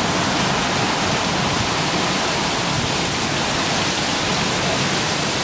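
Heavy rain falling steadily into standing water on flooded ground, the drops splashing across the surface.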